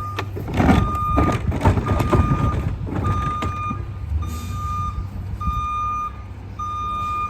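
Garbage truck's backup alarm beeping about once a second while it reverses, over the steady rumble of its diesel engine, with a burst of loud clattering noise in the first couple of seconds.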